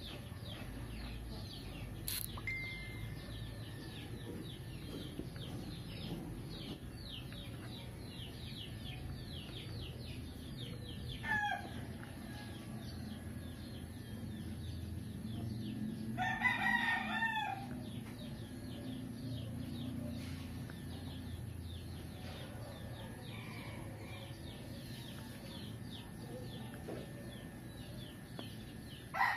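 Background bird calls: a short falling call about a third of the way in and a louder call of several notes a little past halfway, over faint chirping that repeats about twice a second and a steady low hum.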